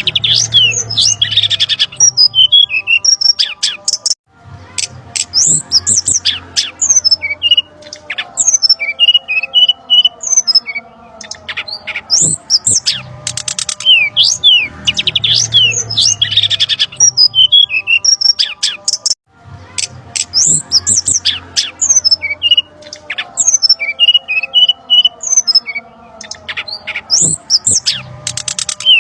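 Bird-lure recording of brown-chested jungle flycatcher calls: a busy, agitated chatter of quick sharp whistles and squawks. The same stretch repeats about every 15 seconds, with a brief break between repeats.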